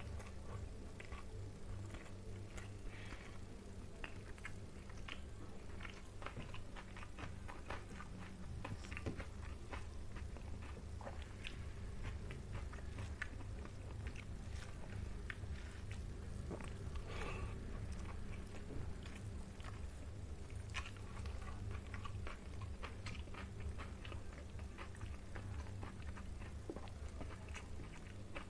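Close-up eating sounds: chewing rice and fish curry, with many small wet clicks from the mouth and fingers throughout. A steady low hum runs underneath.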